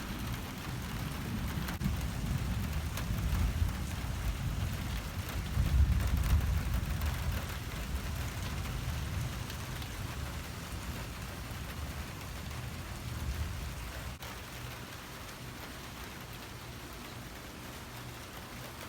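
Heavy tropical-storm rain pouring steadily. Rolling thunder rumbles underneath, swelling to its loudest about six seconds in, then dying away over the next several seconds.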